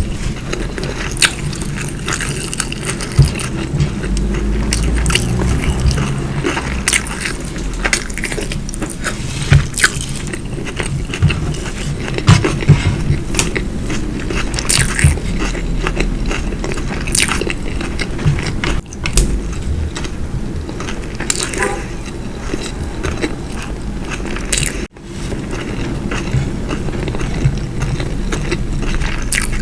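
Close-miked eating sounds: chewing and biting food, with frequent sharp mouth clicks over a steady low hum. The sound drops out briefly twice.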